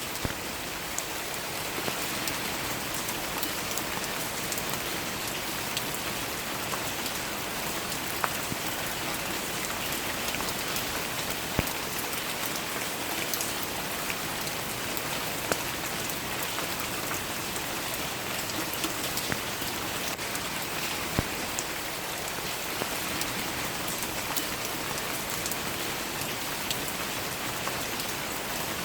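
Steady rain falling, with single drops ticking sharply here and there through the even hiss.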